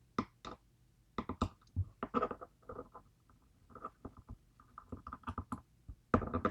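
Irregular small clicks and taps, some in quick clusters, from tools working in a DOM IX Twinstar lock plug while its keypins are pulled out; the loudest cluster comes near the end.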